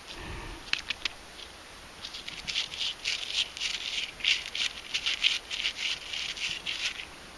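Digging into an old bottle dump, dirt and small glass fragments rattling and trickling. A few sharp clicks come about a second in, then dense rattling clusters for about five seconds.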